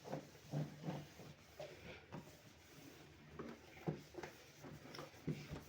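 Towel rubbing over the inside of a fridge, with light irregular knocks and taps against its plastic walls and shelves.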